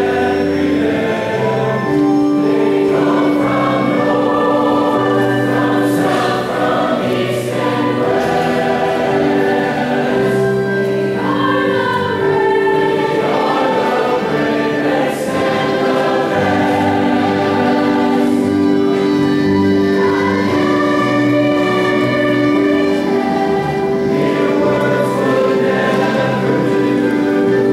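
A choir singing a slow piece with long held notes, over instrumental accompaniment.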